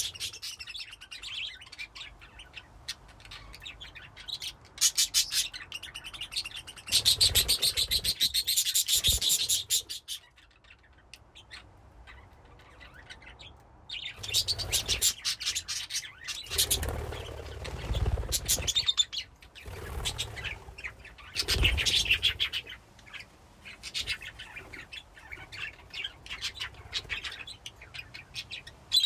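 A flock of budgerigars chirping and chattering in bursts of rapid high chirps, with a lull of a few seconds near the middle.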